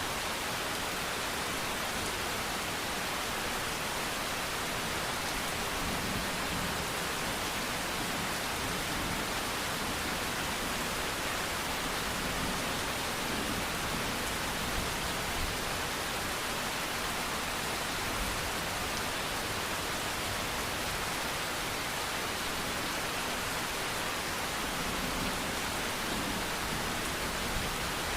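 Steady rain falling, a constant even hiss with no distinct drops or thunder standing out.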